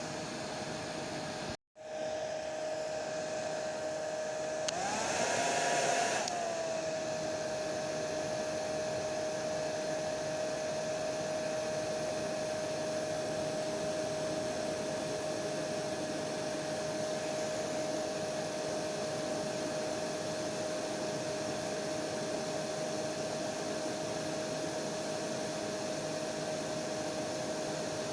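Hair dryer running with a steady rush of air and a steady motor whine. It cuts out for a split second near the start, and about five seconds in it briefly gets louder and higher in pitch, then settles back to its even hum.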